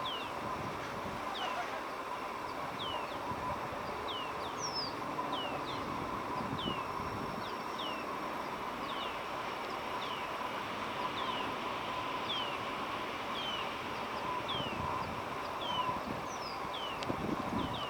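A bird repeating a short, thin, high call note that drops in pitch, about every two-thirds of a second. It sounds over a steady faint outdoor hum.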